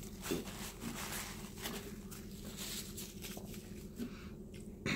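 Faint, irregular chewing and mouth sounds of someone eating, over a steady low hum.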